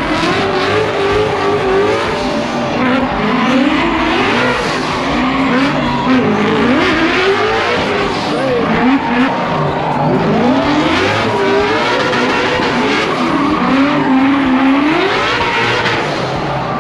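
High-powered car engine revving hard in a burnout, its pitch repeatedly climbing and dropping, over the steady noise of spinning, squealing tires.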